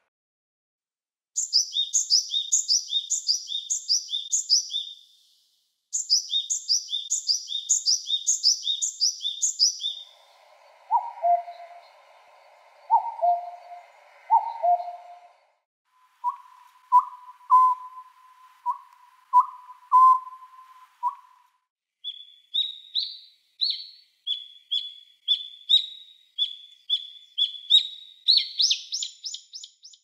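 Recorded songs of Japanese wild birds, four different calls one after another. First comes a quick, high repeated phrase in two bursts, then a low two-note call three times, then a run of mid-pitched notes, and last a long series of high notes that climbs in pitch near the end.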